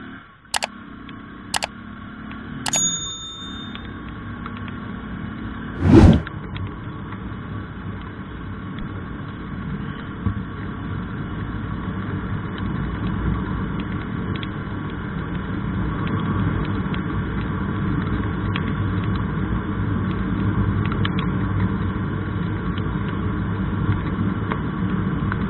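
Steady vehicle rumble that slowly grows louder. In the first three seconds there are three sharp clicks, the last followed by a short high beep, and about six seconds in there is a single loud thump.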